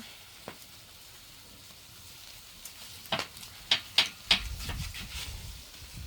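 Food frying with a faint sizzle, and a few sharp clatters of a utensil, four of them in about a second and a half starting some three seconds in, followed by a brief low rumble.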